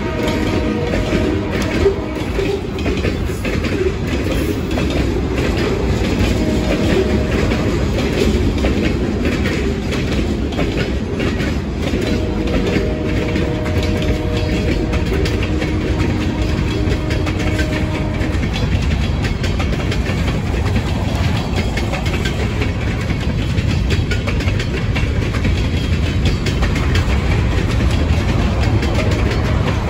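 Union Pacific freight train rolling past close by, its boxcars and covered hopper cars running on steel wheels that click over the rail joints above a steady rumble. A steady tone rises above it for several seconds midway.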